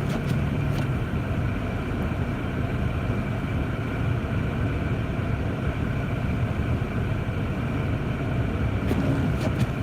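Steady engine and road noise inside the cabin of a Jeep Grand Cherokee driving slowly at about 20 miles an hour on snowy roads, with a few faint clicks near the end.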